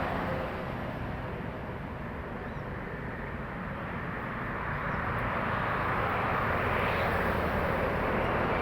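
Highway traffic of trucks passing by: a steady mix of engine rumble and tyre noise that eases a little about a second in and builds again toward the end as another vehicle approaches.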